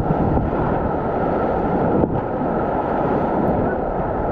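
Steady rush of Kennebec River whitewater around a raft, with wind noise on the microphone, and a brief tick about two seconds in.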